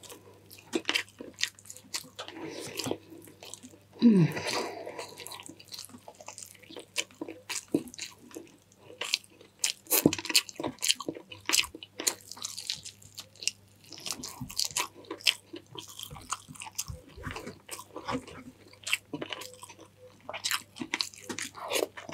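Close-miked eating sounds: a person chewing and biting food, with many small wet mouth clicks and smacks throughout. About four seconds in comes a louder short sound that falls in pitch.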